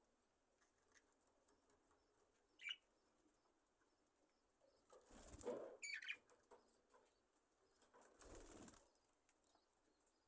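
Budgerigars in an aviary, mostly quiet, with two brief wing flutters, one about halfway through and one near the end, and a couple of short soft chirps.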